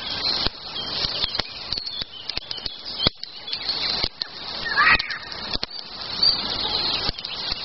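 Twigs rustling and snapping with irregular sharp clicks at a campfire being lit, while small birds chirp in the background with a short call about five seconds in.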